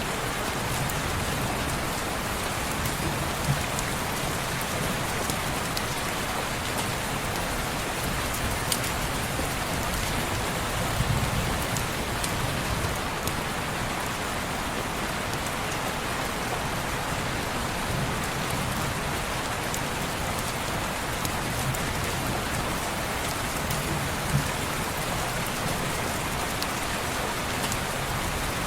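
Steady rain falling on window glass, an even hiss with scattered sharp ticks of drops or small crackles.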